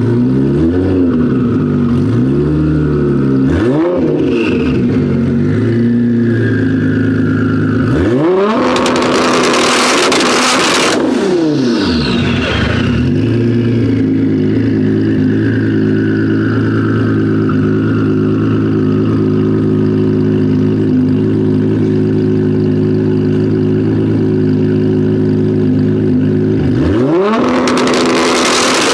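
Sports car engine revved hard through a loud exhaust several times, its pitch sweeping up and falling back, with harsh rasping stretches at two of the peaks. In between it holds a long steady note.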